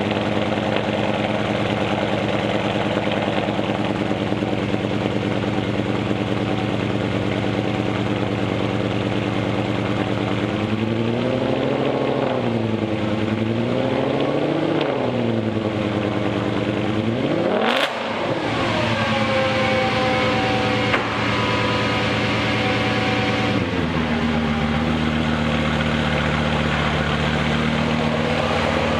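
Audi S6's 5.2-litre V10 running through a Milltek exhaust: it idles steadily, is blipped gently twice, then revved sharply once before falling back. Near the end the idle steps down to a lower, steadier note.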